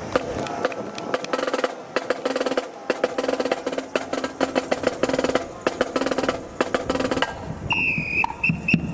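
Marching band drumline playing a rapid snare drum cadence, with a steady held note underneath for most of it. A short high tone sounds a few times near the end.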